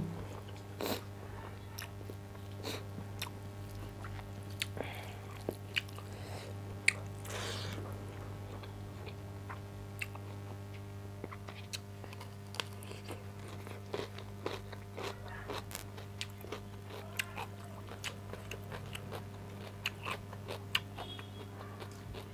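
A person eating close to the microphone: chewing and biting a meal of rice, meat, lentils and cucumber salad, with many small crunches and mouth clicks, over a steady low hum.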